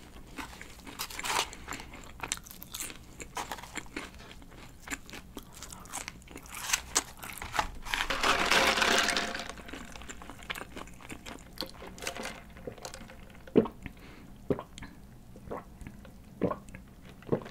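Close-up crunching and chewing of crispy seasoned McDonald's curly fries, many small crisp crunches, with a louder stretch about eight seconds in.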